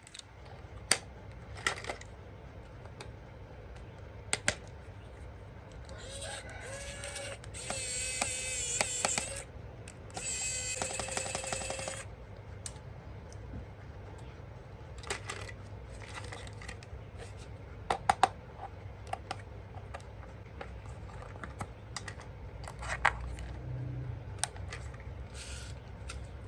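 Handling noises of toys and packaging: scattered sharp plastic clicks and knocks. For a few seconds in the middle, a pitched tone with overtones sounds on and off.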